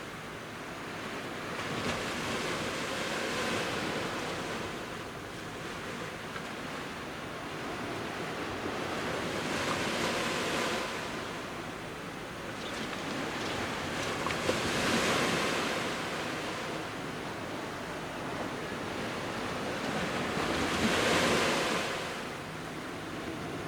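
Sea waves of about one metre breaking on a beach, the surf surging about every five to six seconds with a steady wash between breaks.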